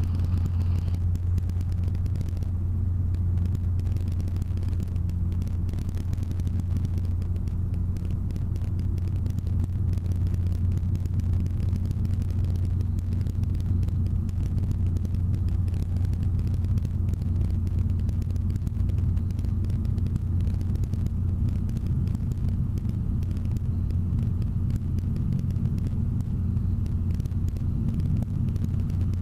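Robinson R22 Beta helicopter's engine and rotors running in flight, a steady low drone with no change in pitch or loudness.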